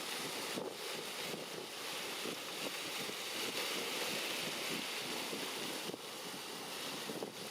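Steady rushing noise, swelling slightly in the middle: wind on the microphone mixed with the distant jet noise of a Boeing 787-9 airliner.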